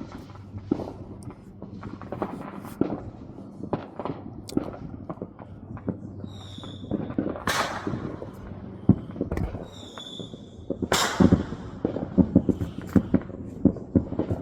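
Fireworks going off around the neighbourhood: scattered pops and crackles, two short whistles each ending in a loud bang, then a rapid run of firecracker pops near the end.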